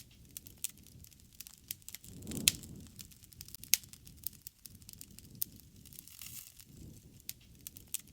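Wood campfire crackling, with irregular sharp pops and snaps over a soft low rush that swells now and then. The loudest pops come about two and a half seconds in and again near four seconds.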